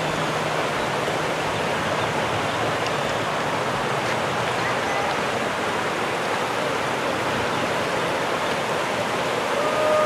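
Steady rushing of river water, an even, unbroken hiss.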